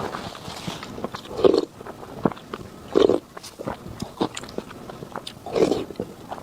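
Close-miked eating: a person biting and chewing with wet mouth clicks and smacks, three louder mouthfuls standing out across a few seconds.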